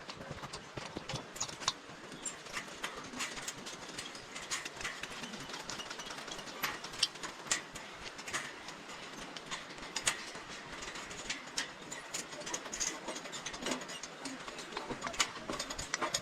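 Steady rush of river water with irregular sharp clicks and knocks over it, from a hiker's footsteps and gear on the rocky riverside trail.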